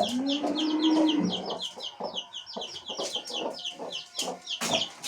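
A newly hatched chick peeping steadily in short high chirps that fall in pitch, about five a second. At the start a hen gives a low drawn-out call lasting about a second.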